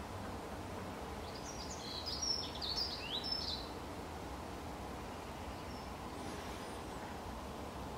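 Steady outdoor background noise with a light breeze on a camera's built-in microphone. About two seconds in, a small bird gives a quick run of short, sliding high chirps for around two seconds.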